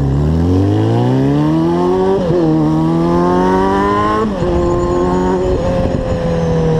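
Motorcycle engine and exhaust accelerating hard through the gears: the pitch climbs, drops briefly at an upshift about two seconds in, climbs again, then drops at another shift near the middle and settles into a steady cruise with slowly falling revs.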